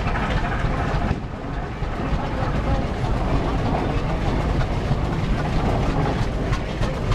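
Vintage tractor engine running steadily, with a rapid rhythmic pulse.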